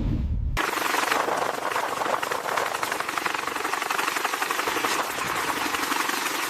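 A low rumble cuts off abruptly about half a second in, replaced by a loud, steady, fast-rattling mechanical noise.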